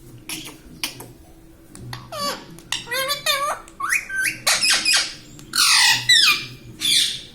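Indian ringneck parrot chattering: high, bending warbled calls like mimicked talk, then loud harsh squawks near the end.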